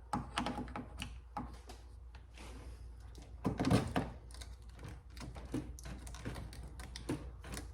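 Key being worked in the driver's door lock cylinder of a 2012 Fiat 500, the lock and latch mechanism clicking repeatedly, with a louder clunk about three and a half seconds in.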